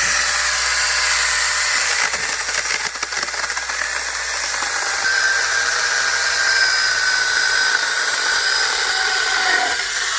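Angle grinder fitted with a chainsaw-conversion kit, running at full speed and cutting a log, a steady high motor whine over the rasp of the chain.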